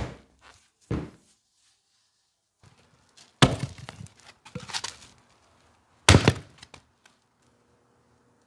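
An axe chopping into wood: about five heavy strikes, a second or more apart.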